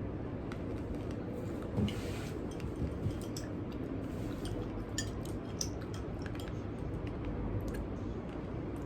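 Opener clinking and scraping at the metal cap of a glass soda bottle, a run of small irregular clicks as the cap is pried at.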